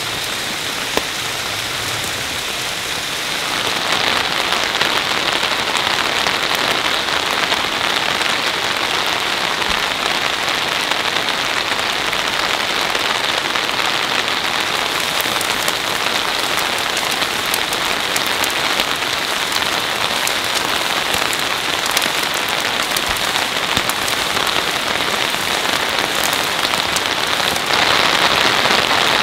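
Steady rain falling, a dense patter that turns louder about three and a half seconds in and again near the end.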